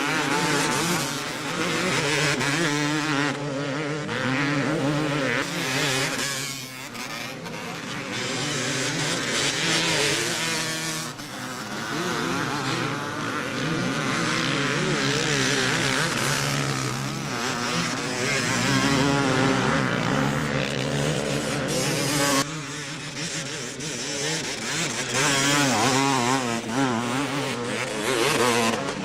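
Motocross bikes racing, their engines revving up and down as they ride the track. Several engines are heard at once, with a sudden change in level about two-thirds of the way through.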